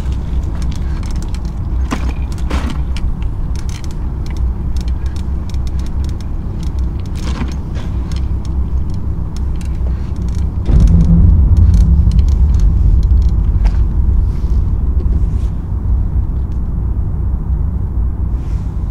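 Bicycle being ridden on asphalt: a steady low rumble of tyres and wind on the microphone, with scattered light clicks and rattles from the bike. The rumble grows louder about eleven seconds in and eases back about five seconds later.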